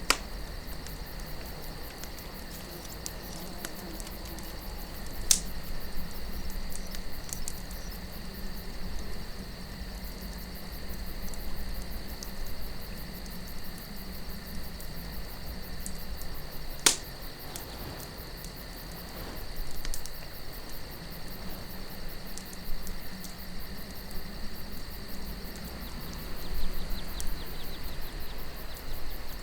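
Campfire crackling softly, with a few sharp pops of burning wood, the loudest about five seconds in and just past the middle. Crickets chirp steadily in a continuous high trill over a low, even rumble of wind.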